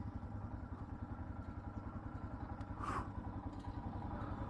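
Motorcycle engine running steadily at low revs, its firing pulses even throughout, with a short hiss about three seconds in.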